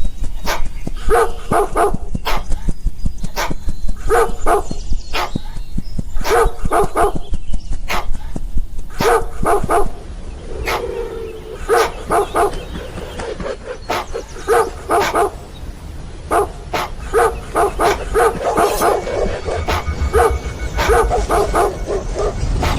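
A dog barking over and over in quick runs of two to four barks, about one run a second, mixed with many sharp clicks.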